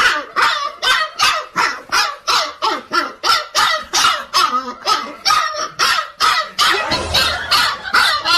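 A dog barking over and over in a fast, even run of short, sharp barks, about three a second.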